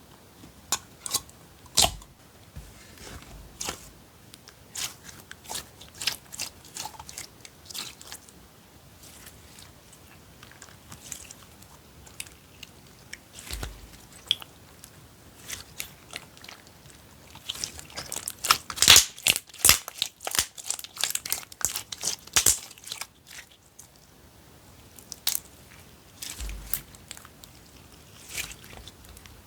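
Hands squeezing and poking slime: a run of sharp, crisp clicks and crunches, coming thickest and loudest a little past the middle.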